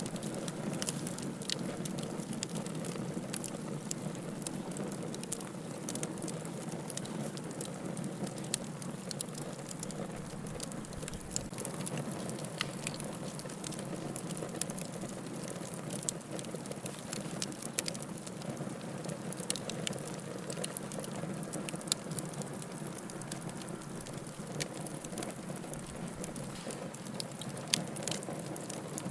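Wood fire burning in a fireplace: a steady low rush of flame under frequent small crackles and pops, with a few louder pops standing out, one about 22 seconds in and one near the end.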